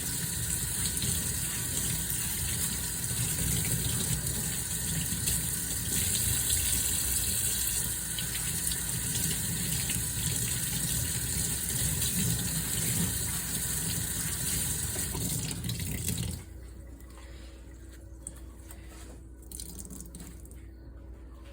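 Kitchen tap running water into a sink, shut off about three-quarters of the way through; a few faint knocks follow.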